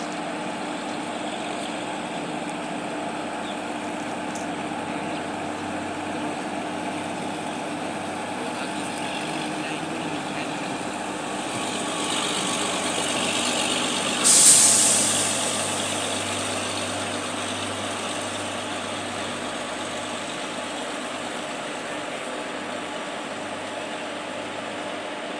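An electric-hauled goods train and an OHE inspection car pass on adjacent tracks, giving a steady rumble with a faint hum. About fourteen seconds in, a sudden loud hiss starts and fades over about two seconds.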